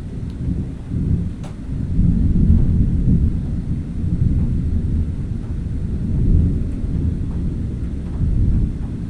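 A long roll of thunder: a deep rumble that builds over the first two seconds, keeps rolling with a couple of swells, and starts to fade near the end.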